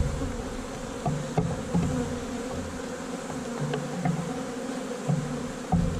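Honey bees buzzing steadily around an open, heavily populated hive, with a few faint knocks.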